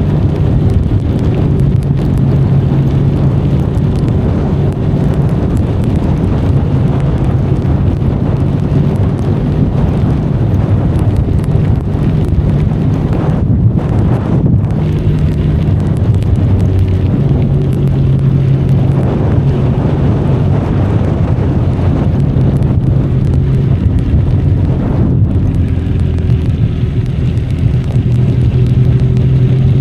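Benelli Leoncino 500's parallel-twin engine running under way at cruising revs, its pitch dipping and coming back up a few times, under a constant rush of wind on the microphone and rain.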